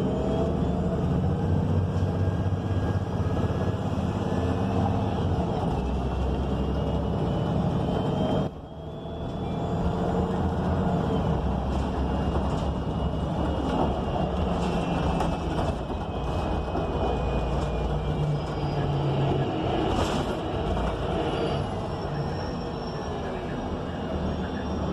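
Interior sound of a 2019 ENC Axess city bus under way: its Cummins Westport L9N natural-gas engine and Voith automatic transmission running, with road noise and faint rising and falling whines. About a third of the way through, the level drops suddenly for a moment, then builds again.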